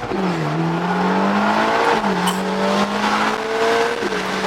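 Ferrari sports car engine accelerating hard through the gears. Its pitch climbs, then drops at each quick upshift, about every two seconds, three shifts in all.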